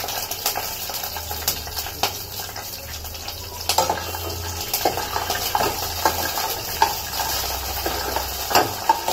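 Green peas sizzling in hot mustard oil and mustard seeds in a stainless-steel kadhai, with a steel spoon scraping and clinking against the pan as they are stirred.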